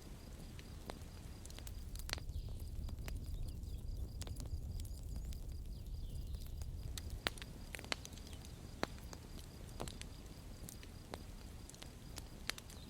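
Campfire crackling: irregular sharp pops and snaps over a low, steady rumble of the burning fire.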